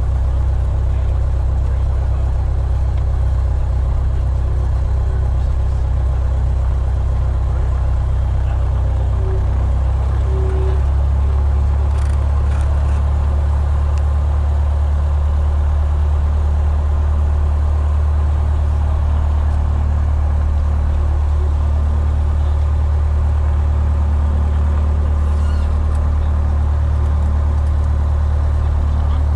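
Piper Warrior's four-cylinder Lycoming engine and propeller droning steadily, heard inside the cockpit. The low note shifts slightly higher and stronger about ten seconds in.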